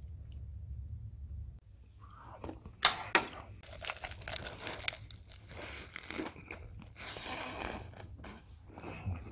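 A low hum cuts off about a second and a half in. Then a man bites into and chews a big mouthful of lettuce wrap filled with kimchi stir-fried pork belly, close to the microphone: crisp crunches of fresh lettuce, loudest about three and five seconds in, and wet chewing.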